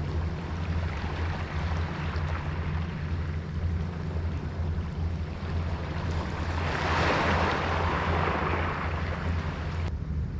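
A boat's engine running with a steady low hum, water rushing along the hull, and a louder rush of water for about three seconds past the middle.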